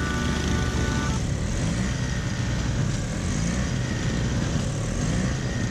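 Snowblower engine running steadily under load, its pitch wavering slightly. The tail of a music track ends about a second in.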